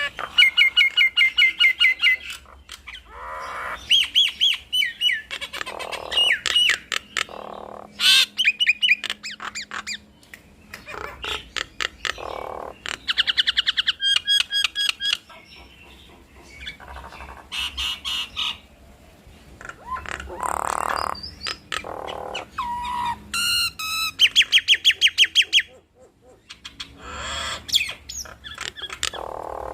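Nias hill mynas calling back and forth in a duet: fast runs of repeated sharp whistled notes, rising and falling whistles and harsh squawks, with a brief pause late on.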